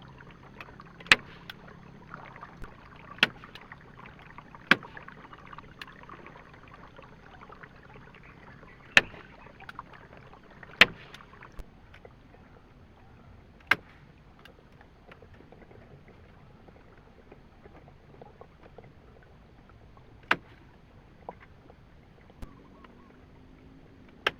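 About eight sharp knocks, one to a few seconds apart, over a faint steady rush.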